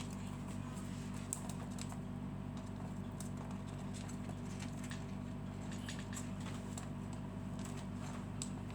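Scattered light clicks and taps from pet lovebirds moving and pecking about, over a steady low hum.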